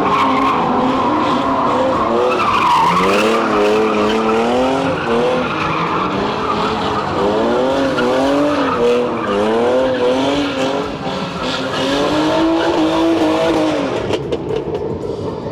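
Drift cars' engines revving up and down again and again while their tyres screech through the slides. The sound drops off somewhat near the end.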